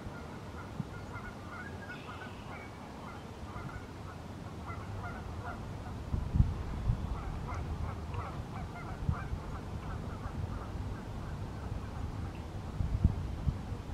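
Many short honking bird calls repeated irregularly at a distance, with a few low thumps about six seconds in and again near the end.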